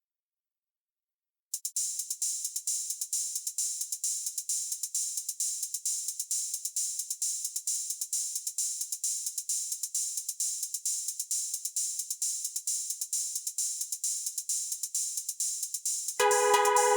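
Programmed backing track: after about a second and a half of silence, a drum-machine hi-hat starts a steady, fast pattern on its own. Near the end, synthesizer chords come in over it and the track gets louder.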